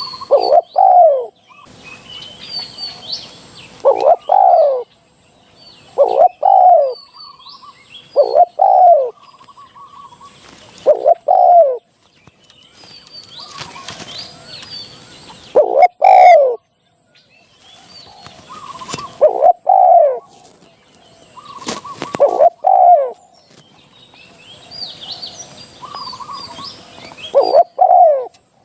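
Spotted dove cooing, a loud low phrase repeated about every two to three seconds, with faint high chirps of small birds between the phrases and a few sharp clicks.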